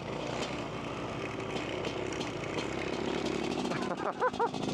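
Dirt bike engine running while riding through snow, with wind noise on the microphone. About four seconds in come two short, high-pitched rising-and-falling sounds.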